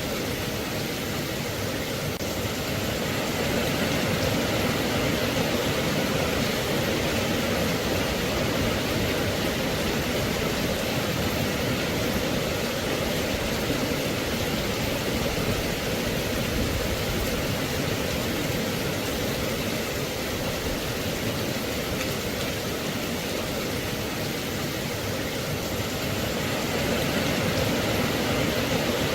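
Steady rain, an even hiss that swells slightly about four seconds in and again near the end.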